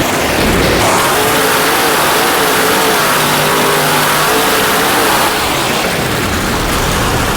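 Monster truck engine revving hard, its pitch rising and falling again and again with the throttle over a loud, noisy roar.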